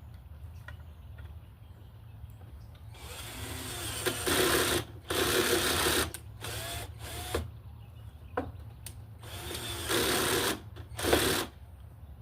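Cordless drill running in about five short bursts, the motor spinning up and winding down each time, as it drills into wood.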